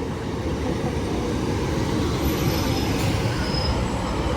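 Class 156 Sprinter diesel multiple unit running into the platform, a steady low rumble of engines and wheels that slowly grows louder, with a faint thin high squeal about halfway through.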